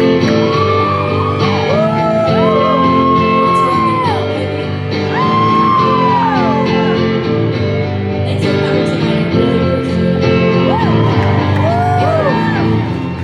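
Live solo song: steady guitar chords under a wordless sung vocal line of long held notes that slide up and down.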